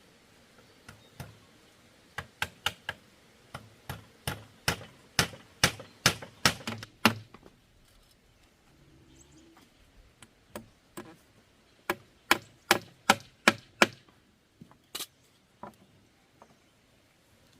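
A tool striking bamboo in quick, sharp knocks: a run of about fifteen strikes, roughly three a second, then a pause, a shorter run of about seven, and a few scattered knocks near the end.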